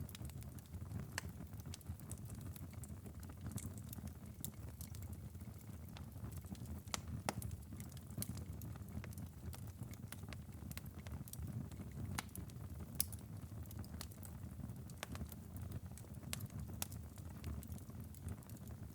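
Glowing ember bed of a wood fire in a fireplace crackling, with scattered small sharp pops and snaps over a low steady rumble.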